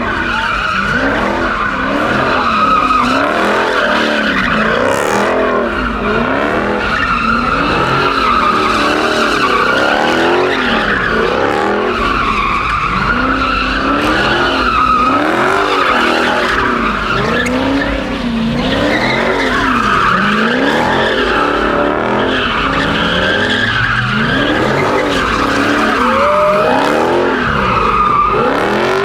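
A car's engine revving up and down over and over while its tyres squeal without a break, as in drifting or donuts.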